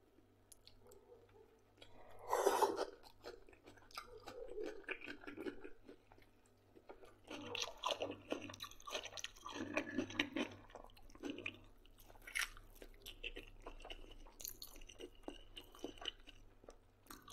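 A man chewing and biting into homemade pork-head sausage close to the microphone. The sound comes in irregular bursts of mouth noise and small clicks, with one louder burst about two and a half seconds in.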